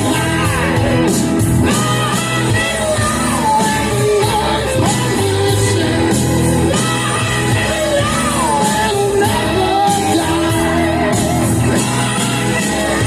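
Hard rock song with shouted, strained lead vocals over a loud band, playing steadily throughout.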